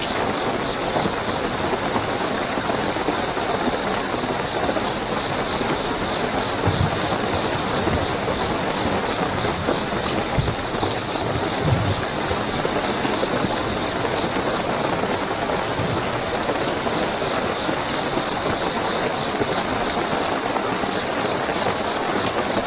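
Steady heavy rainfall with crickets trilling in one continuous high note, and a couple of faint low thuds about a third and half of the way in.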